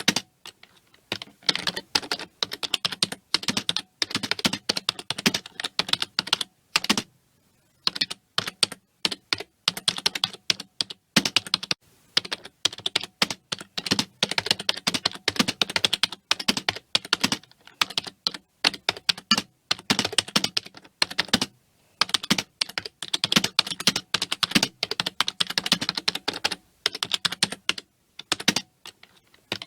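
Computer keyboard being typed on quickly and continuously, a dense run of key clicks with a few short pauses.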